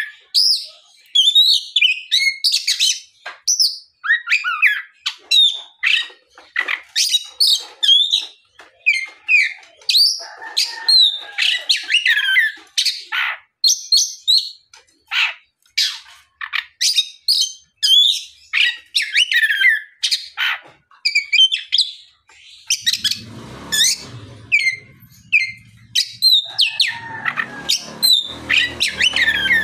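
Oriental magpie-robin (kacer) singing in loud, continuous full song: a rapid stream of varied whistled phrases, quick trills and chirps with short gaps between them. A low background rumble comes in near the end.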